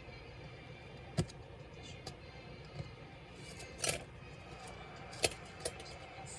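Parts and tools clicking while a Dell Latitude 3301 laptop is taken apart: four sharp clicks and a short scrape over a steady low hum.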